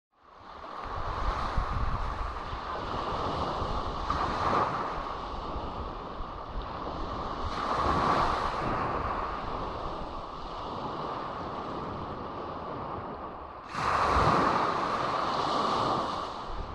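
Sea waves breaking on a beach, a steady wash of surf that swells every few seconds, with the loudest wave crashing in suddenly about three-quarters of the way through.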